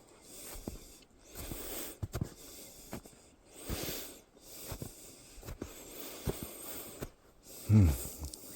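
Heavy, laboured breathing of a hiker climbing a steep snowy slope, with short crunching footsteps in snow between breaths. Near the end comes a loud voiced grunt of effort.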